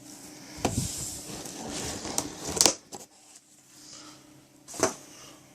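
Packaging rustling and scuffing as a wrapped part is unpacked by hand, with two sharper crackles, one about halfway through and one near the end.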